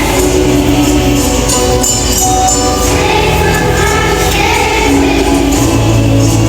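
A choir singing to music, with a tambourine jingling in a steady rhythm.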